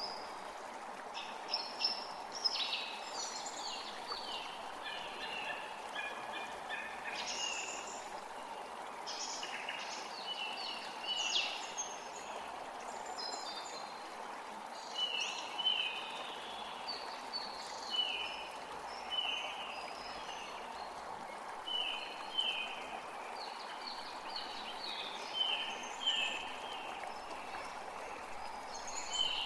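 Forest creek running steadily, with several songbirds singing over it. From about halfway, one bird repeats short falling notes every second or so.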